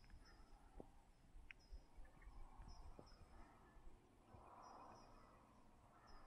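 Near silence, with faint, high chirps from small birds repeating every second or so and a few soft thuds.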